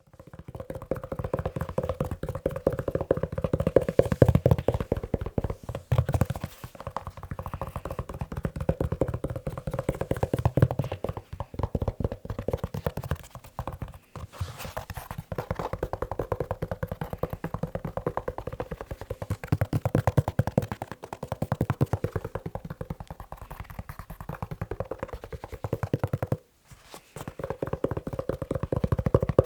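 Rapid fingertip tapping on a leather shoe: a dense run of many soft, hollow taps a second, pausing briefly about halfway through and again near the end.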